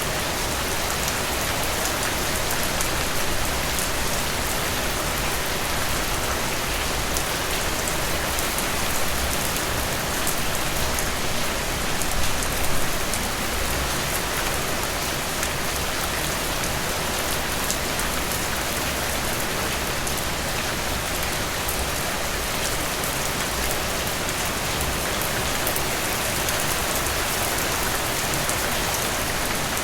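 Steady rain falling, a dense even hiss with many fine drop ticks, swelling slightly about twelve seconds in.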